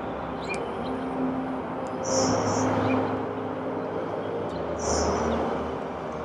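Steady background traffic rumble, with vehicles passing and swelling louder about two seconds in and again near the end, and two short high-pitched squeaks.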